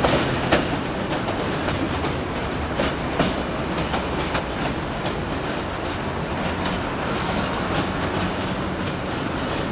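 A train rolling along the track: a steady rumble of wheels on rail, with irregular sharp clicks and knocks as the wheels cross rail joints.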